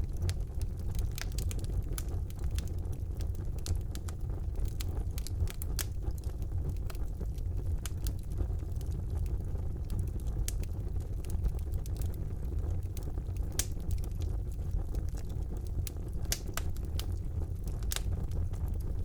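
Fire burning in a fireplace, crackling with many irregular sharp pops and snaps over a steady low rumble of the flames.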